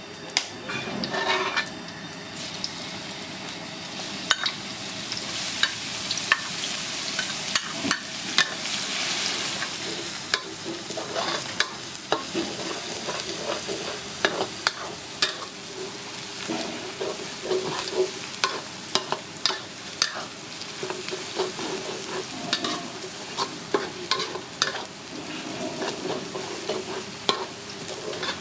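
Stir-frying in a wok: food sizzling in hot oil while a metal utensil stirs and strikes the pan, giving many sharp clanks over the steady sizzle.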